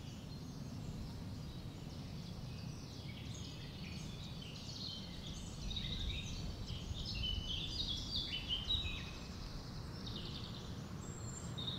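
Small birds singing, a lively run of short high chirping notes that grows busier in the second half, over a steady low rumble of outdoor background noise.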